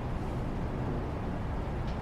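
Steady background noise, heaviest in the low range, with one faint click near the end.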